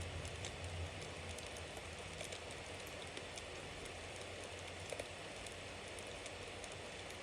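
Bonfire burning: a steady hiss with frequent small crackles and pops from the burning wood, and one sharper pop about five seconds in.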